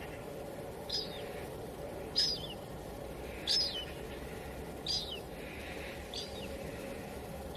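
A bird giving five short, high chirps, each dropping at the end, about one every second and a bit, over steady wind noise.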